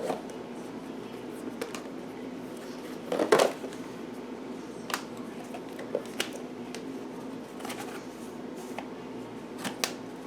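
Cardstock panels and paper flaps of a handmade explosion box being handled and opened, giving scattered light taps and clicks, the loudest a quick double tap about three seconds in, over a faint steady hum.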